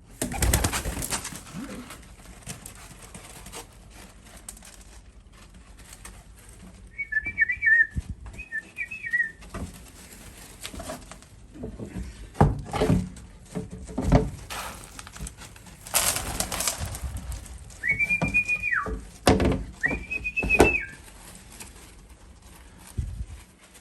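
Young racing pigeons whistling in the loft: two short wavering peeps about a third of the way in, then two longer arched whistles near the end, about a second each. Several short bursts of rustling noise come in between.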